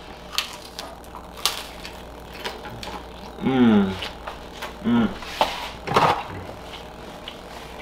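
Someone biting and chewing a crisp fried flour-tortilla nacho chip: a series of sharp crunches close to the microphone, with a few short hums of enjoyment between bites.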